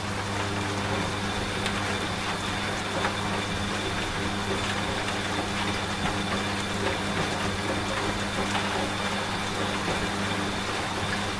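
Washing machine running with a steady low motor hum whose pitch steps up slightly at the start, mixed with steady rain and scattered drop ticks.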